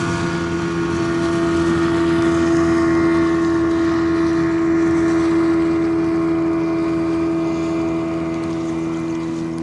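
Motorboat engine running steadily, a constant pitched drone that swells over the first few seconds and then slowly fades.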